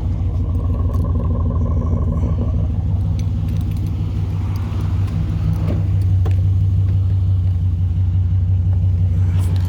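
2011 Dodge Durango R/T's 5.7 L Hemi V8 idling steadily, with a deep, even exhaust drone through Thrush Rattler bullet-style mufflers fitted in place of the mid mufflers, resonators deleted. It gets a little louder about six seconds in.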